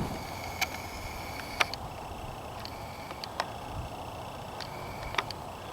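Quiet outdoor background with a few faint sharp clicks, spaced irregularly a second or two apart.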